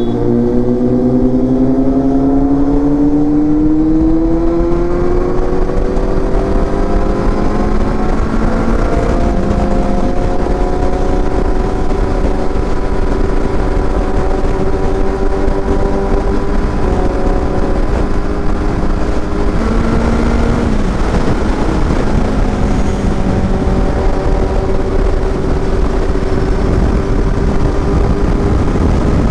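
Kawasaki Z800's inline-four engine under way: the revs climb steadily for the first several seconds, then step down and up a few times through gear changes, and hold steady near the end, over a constant rush of wind and road noise.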